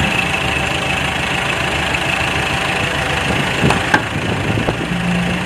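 Diesel engine of heavy earthmoving equipment running steadily, with a few sharp metallic knocks about three and a half to four seconds in.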